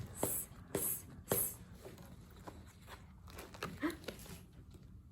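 A woman's voice hissing a short "sss" three times, the /s/ sound of the letter Z as said in Latin American Spanish, then faint room noise with a few small clicks.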